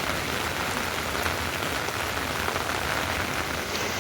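Heavy rain falling steadily, a dense hiss with scattered drops pattering on surfaces.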